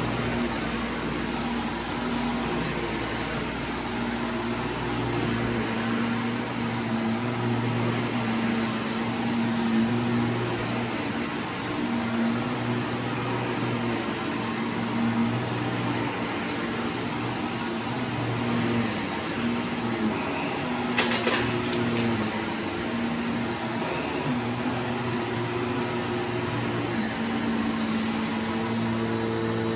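Vacuum cleaner running steadily, its low motor hum wavering in and out as it works, with a couple of sharp clicks about two-thirds of the way in.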